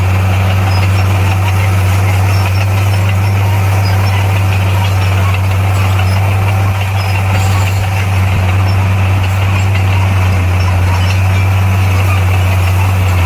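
Heavy earthmoving machine's diesel engine running steadily with a deep, constant hum, dipping slightly for a moment about halfway through.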